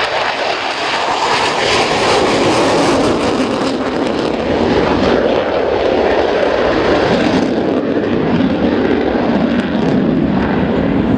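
Panavia Tornado's two Turbo-Union RB199 turbofans at takeoff power: a loud, steady jet rush with a strong hiss, which softens about seven and a half seconds in.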